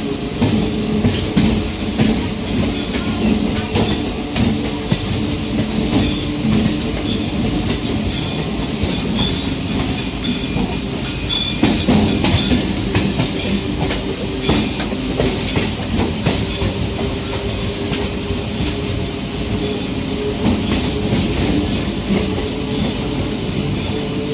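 MEMU electric multiple-unit train running along the track, a steady rumble with the clatter of wheels on the rails, and music laid over it.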